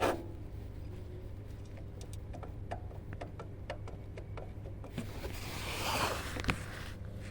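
VAZ 8-valve engine idling with a steady low hum and faint, irregular metallic ticks. A hissing swell builds about five seconds in and ends in a louder click. This is the intermittent metallic knock the owner is tracking down.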